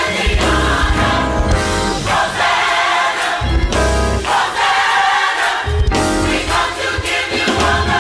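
A gospel choir singing with band accompaniment and a strong bass line.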